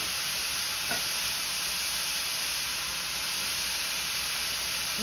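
Raw shrimp and shredded cabbage slaw sizzling in a hot nonstick frying pan: a steady frying hiss.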